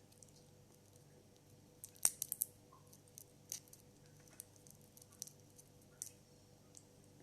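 Crab shell being cracked and picked apart by hand while eating: a quick cluster of sharp cracks about two seconds in, then scattered single clicks.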